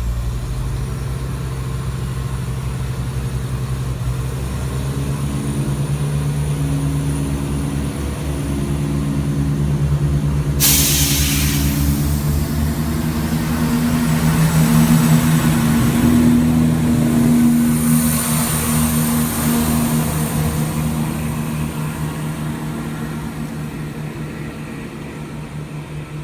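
CrossCountry Class 170 Turbostar diesel multiple unit pulling away, its underfloor diesel engines running under load and throbbing louder as it builds speed, then fading as it draws off. A sudden hiss comes in about ten seconds in.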